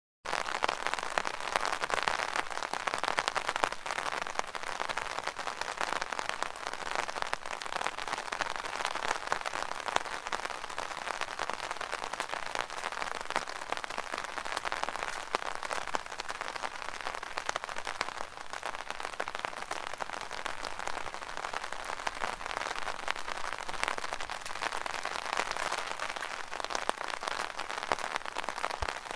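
Rain falling on an open umbrella: a dense, steady patter of drops hitting the fabric canopy. It starts abruptly out of silence right at the beginning.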